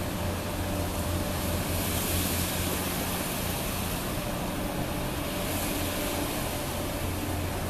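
Steady low engine drone of a ship running, with a constant mid-pitched hum over it and a hiss that swells twice.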